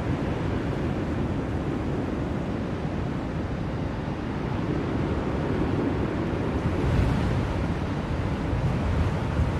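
Blizzard wind blowing: a steady low rush that swells in a gust about seven seconds in.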